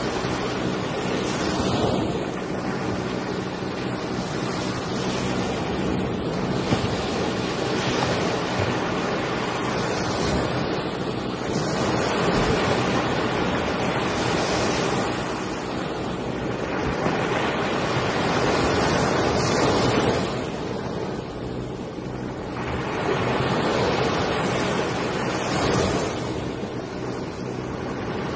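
Floodwater rushing and churning: a loud, continuous rush that swells and eases every few seconds, with wind buffeting the microphone.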